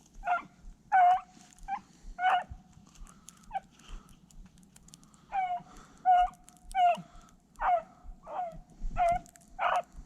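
Beagle baying on a cottontail rabbit's trail: a run of short, high-pitched barks, about one or two a second with a brief lull midway, some trailing into a short held note. It is the hound giving tongue as it runs the rabbit.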